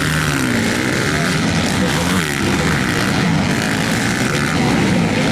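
Several MX2 motocross bikes racing past, their engines revving up and down again and again as riders work the throttle through the track, with a steady undertone of other bikes on the circuit.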